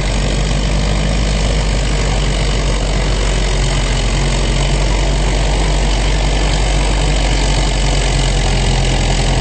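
Farm tractor engine running steadily and loud, with no big revs or changes.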